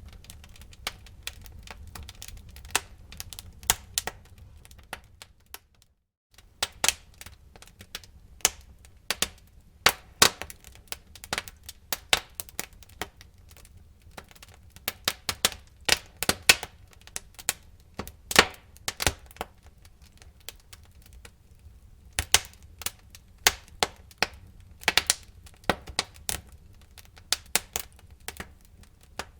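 Wood fire burning in a fireplace, crackling and popping in irregular sharp snaps over a low steady rumble of the flames. The sound cuts out briefly about six seconds in.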